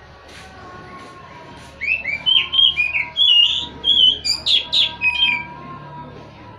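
Oriental magpie-robin (kacer) singing a loud phrase of quick, varied whistled notes and pitch sweeps for about three and a half seconds, starting about two seconds in and ending in a few harsher, scratchier notes.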